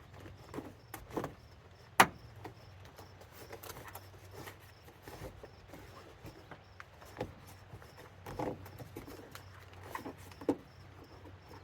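Scattered knocks, clicks and scrapes of hand work on a pickup's old floor carpet as it is cut loose with a knife and pulled up, with one sharp click about two seconds in, over a low steady hum.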